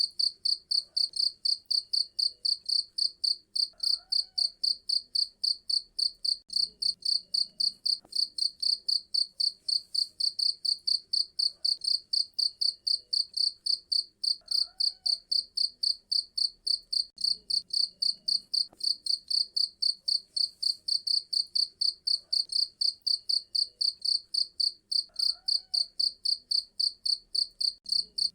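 Cricket chirping steadily in a high, even pulse of about four chirps a second.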